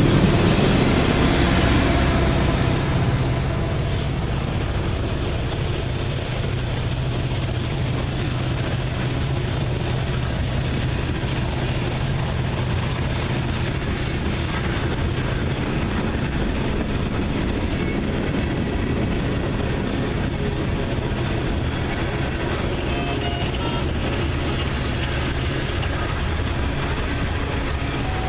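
Freight train passing: diesel locomotive hum over the steady noise of rolling railcars, a little louder for the first three seconds and then even.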